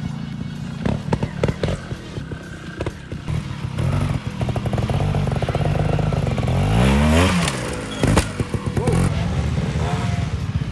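Trials motorcycle engine running at low revs with short throttle blips, revving up sharply and dropping back about two-thirds of the way through. A few sharp knocks and thuds come in between.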